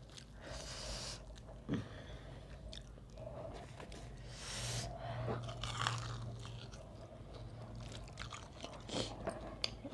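Close-miked chewing and biting into a roasted chicken wing, with a few short noisy bites spread through.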